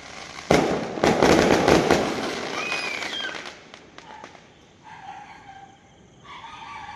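A firework going off: a sudden bang about half a second in, followed by dense crackling that fades over about three seconds, then a few scattered pops.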